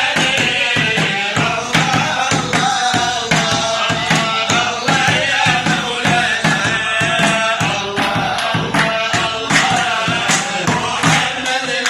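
Folk singing with voices over a steady beat of hand percussion.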